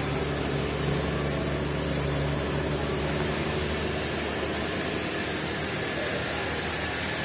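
Sawmill engine running steadily, with a low hum that eases off a couple of seconds in.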